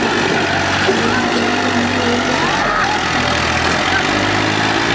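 Farm tractor engines running steadily under load as the tractors pull against each other in a tug-of-war, with people shouting over them.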